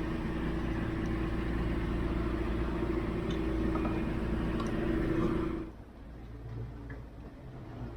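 A sailboat's inboard engine running steadily under way: a low rumble with a steady hum, which drops away abruptly about two-thirds of the way through, leaving a quieter rumble.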